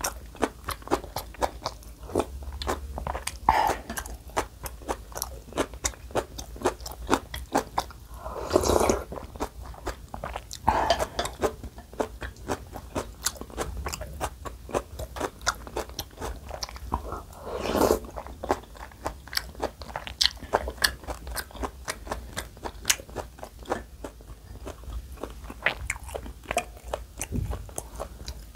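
Close-miked wet chewing and mouth clicks from eating rice cake dumpling soup with a spoon. Four longer, louder slurps come about 3.5, 9, 11 and 18 seconds in.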